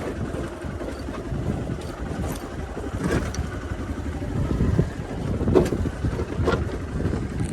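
Hero Xpulse 200 motorcycle being ridden, its engine rumbling under wind buffeting the microphone, with several sharp knocks from the bike jolting over rough ground.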